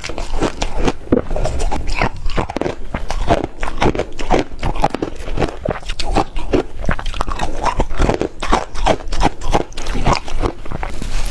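Close-up biting and chewing of ice, a quick run of crisp crunches, several a second.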